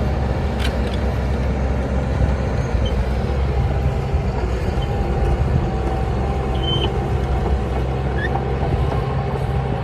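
Heavy earthmoving machine's diesel engine running steadily with an even low hum, and a sharp click about half a second in.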